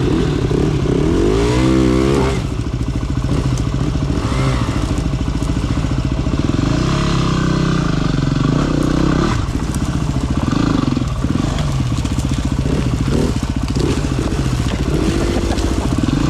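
Dirt bike engine running at low speed on a rough trail, its revs rising and falling over and over as the throttle is worked.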